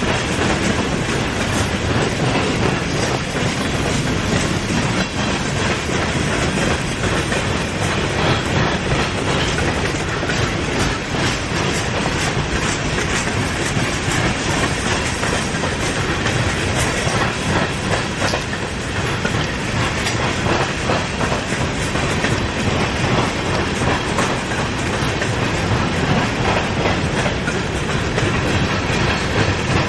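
Freight train of grain cars rolling steadily past, the steel wheels clacking over the rail joints in a continuous clatter.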